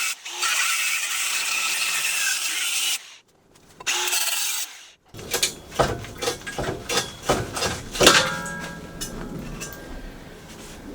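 Angle grinder cutting metal, a steady loud hiss that stops abruptly after about three seconds, followed by a short second burst of cutting. Then comes a run of irregular knocks and clatters, the loudest about eight seconds in.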